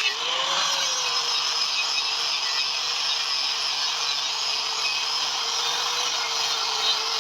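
A small motor, such as a power tool, running steadily with a hiss; its pitch rises briefly and settles about half a second in.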